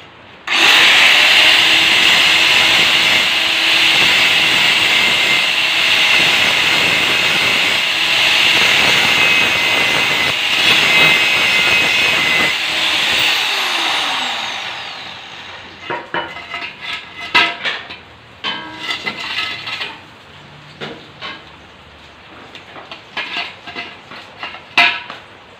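Angle grinder cutting a hollow steel tube, a loud steady hiss for about fourteen seconds, then its whine falls away as the disc spins down. After that come scattered sharp metal knocks and taps.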